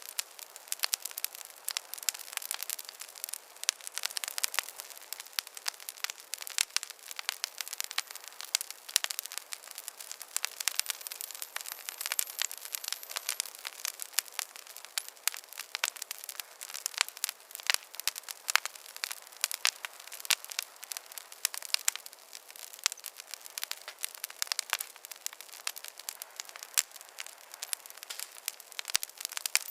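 Wood campfire crackling: dense, irregular snaps and pops over a soft hiss, with no low rumble.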